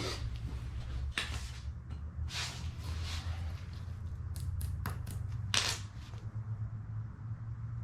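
Clicks, taps and rustling of small metal parts and screws being handled on a workbench, the sharpest click about five and a half seconds in, over a steady low hum.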